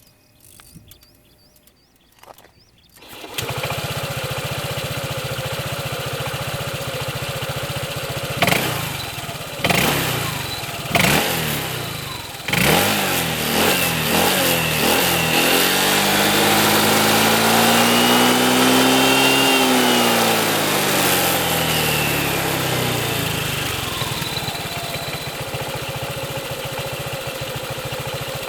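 Honda ADV150 scooter's single-cylinder engine through its stock muffler, starting about three seconds in and idling. It is blipped four times in quick succession, then revved in one long climb that falls back to a steady idle.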